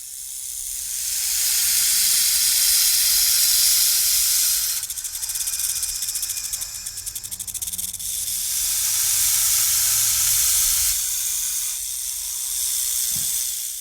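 A snake hissing: long, loud hisses that swell and ease, with a rapid fluttering stretch in the middle.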